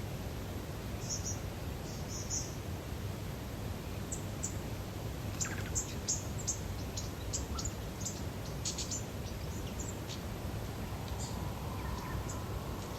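Lakeside nature ambience: small birds giving short, high chirps, scattered and most frequent in the middle, over a steady low background rumble.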